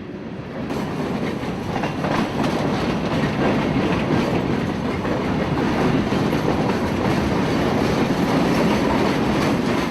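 A freight train of empty wet-rock cars rolling past close by: a loud, steady noise of steel wheels on the rails, building up about a second in and then holding.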